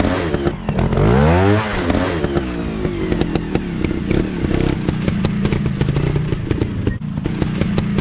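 Dirt bike engine revving up and falling back about a second in, then running at a fairly steady pitch, with clattering and crackling over it.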